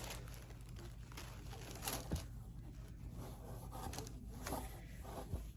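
Faint rustling and handling noises as a shirt is pulled from its packaging and unfolded, with a couple of small soft clicks.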